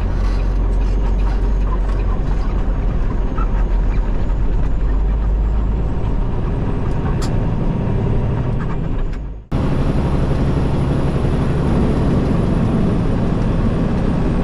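Peterbilt 389 semi truck's diesel engine and road noise heard from inside the cab while driving, a steady low rumble. The sound breaks off abruptly for a moment about nine and a half seconds in, then carries on.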